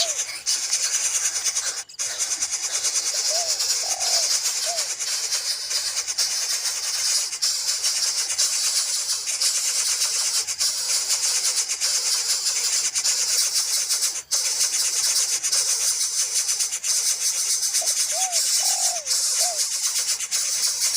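Bird calling in two short runs of three or four quick arched notes, a few seconds in and again near the end, over a steady high hiss.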